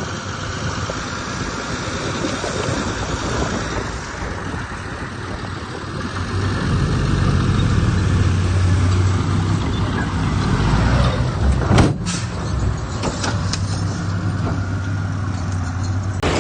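Heavy diesel machine engine running, its drone growing louder and steadier about halfway through as it works harder. A sharp knock comes about two-thirds of the way in, followed by some metallic clatter.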